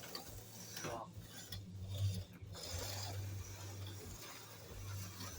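HO-scale slot cars running laps on a plastic track: a steady raspy whir of their small motors and gears over a low hum. The whir drops out briefly a few times between about one and two and a half seconds in.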